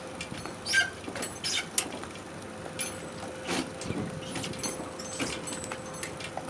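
Electric golf cart with a steady, unchanging whine, and scattered clicks and knocks from the cart and boat-trailer rig.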